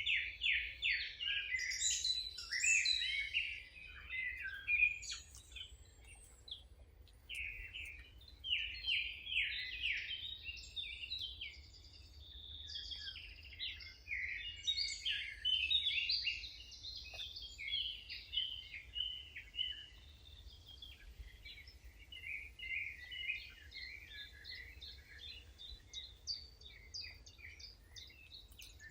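Several songbirds singing and chirping at once, with rapid overlapping trills. The chorus is busiest in the first half and thins toward the end, over a steady low rumble.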